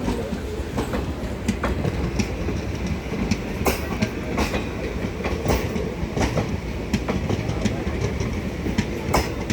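Indian Railways Doon Express passenger train running on the track, its wheels clacking irregularly over rail joints above a steady low rumble.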